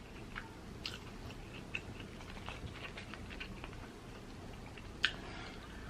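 A person chewing a potato-coated Korean mozzarella corn dog: scattered small crunches and wet mouth clicks, with one sharper click about five seconds in.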